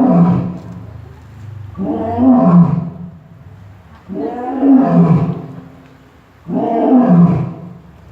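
A big cat roaring in a regular series: loud calls about every two seconds, each falling in pitch.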